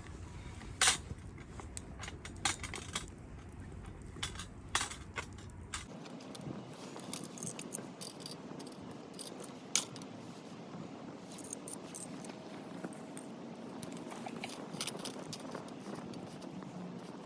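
Scattered light metallic clinks and sharp knocks of small objects being handled, with several louder knocks in the first half. A low rumble underneath stops suddenly about six seconds in.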